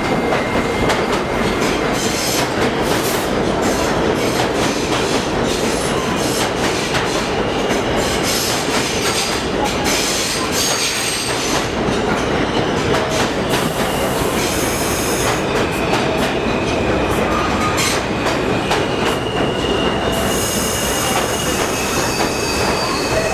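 New York City subway train of R68 cars pulling out of a station, its wheels clacking over rail joints with steady running noise. High-pitched squeals from the wheels on the rails come and go, most plainly in the second half.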